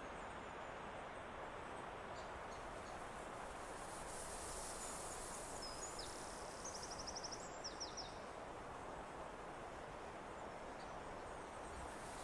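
Steady hiss of wind through forest trees, with a bird giving a few high calls and a quick run of rapid high notes about halfway through.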